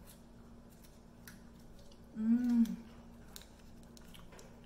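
Chewing a chewy candy, with soft clicks and crinkles from the mouth and the small candy wrapper in her fingers. A short closed-mouth "mmm" comes about two seconds in.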